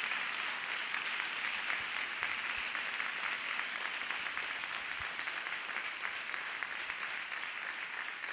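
Church congregation clapping and applauding steadily, fading slightly toward the end.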